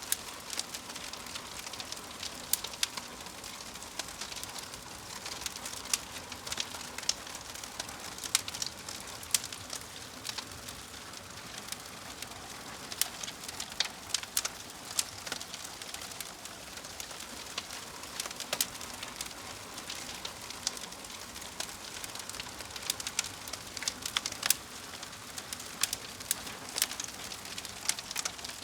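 Wood fire crackling: a steady soft hiss with frequent sharp, irregular pops and snaps.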